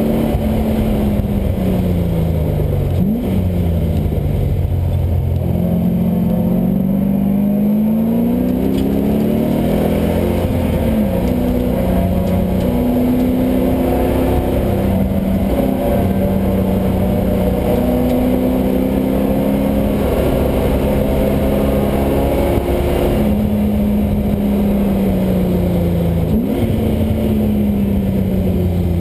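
LS1 V8 in a Mazda Miata under hard driving, its pitch climbing through the gears and falling away again several times, with quick shifts about three seconds in and near the end.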